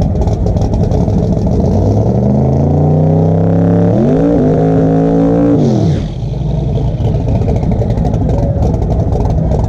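Drag race car's V8 engine at the line, running rough and loud, then revving up gradually from about two seconds in and held at high rpm for a couple of seconds before dropping sharply back to a rough idle.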